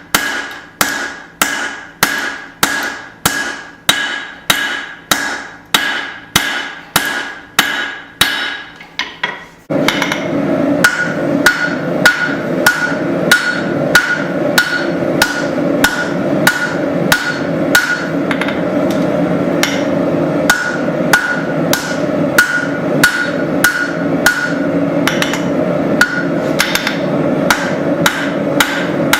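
Forging hammer striking hot steel on an anvil in a steady rhythm, about two blows a second, each blow with a short metallic ring. About ten seconds in, a steady loud rushing noise comes in underneath and stays while the hammering continues.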